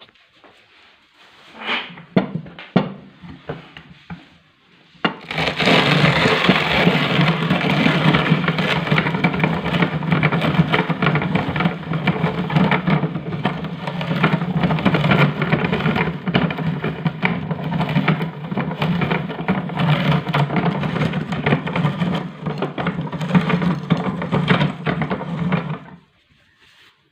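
Electric meat grinder running and grinding, a steady low motor drone with dense crackling, switched on about five seconds in and off shortly before the end. A few clicks and knocks come before it starts.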